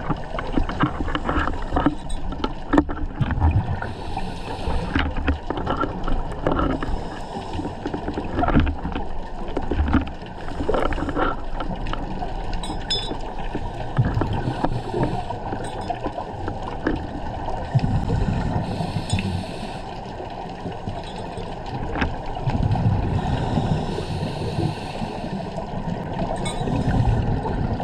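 Muffled underwater sound through a GoPro housing: a scuba diver's regulator breathing, with surges of exhaled bubbles rising every few seconds and scattered sharp clicks.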